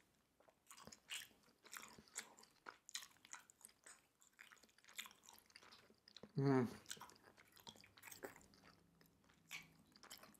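Chewing soft, chewy Korean rice cakes (tteokbokki) in thick spicy sauce: quiet, wet mouth smacks and clicks. A short hum from the eater comes a little past halfway.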